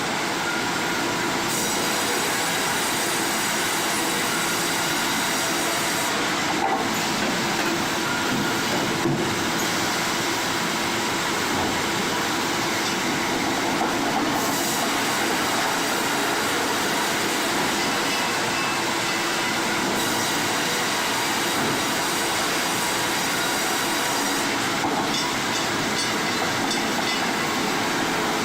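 Sawmill machinery running: a steady, dense mechanical noise with thin high metallic squealing tones, changing in character every few seconds.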